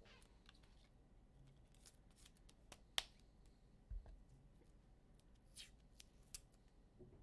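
Faint handling of trading cards: scattered clicks and soft swishes as cards are slid and flipped, with a sharp click about three seconds in and a dull thump a second later.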